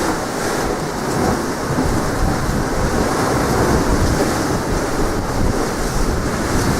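Strong wind blowing across the microphone over sea waves washing ashore: a loud, steady rushing with a low rumble.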